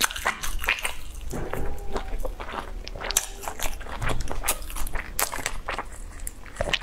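Close-up eating sounds: biting into and chewing grilled sausage, a quick run of wet mouth clicks and smacks.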